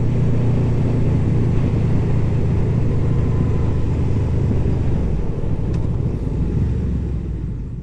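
Honda VFR800F's V4 engine running steadily at a cruise under wind rush, fading out near the end.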